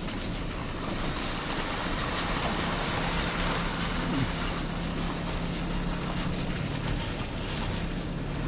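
A car driving while towing a loaded caravan: a steady low engine hum under a constant rush of tyre and wind noise.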